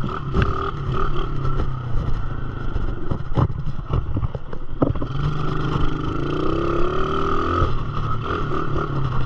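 Small dirt bike's motor running, its pitch rising steadily for about two seconds past the middle as it speeds up, with a couple of sharp knocks and some clatter a few seconds in.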